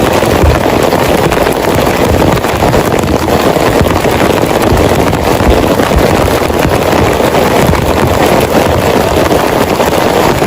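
Heavy rain falling in a loud, steady downpour, a dense even patter with a low rumble beneath.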